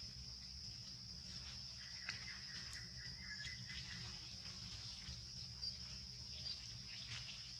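Insects droning steadily in a single high-pitched band, with faint scattered clicks and rustles.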